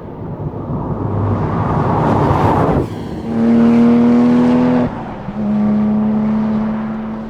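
Porsche 911 R's naturally aspirated 4.0-litre flat-six accelerating hard under full throttle, with two quick upshifts about three and five seconds in. Each shift is followed by a steady, slightly rising engine note, and the sound fades near the end.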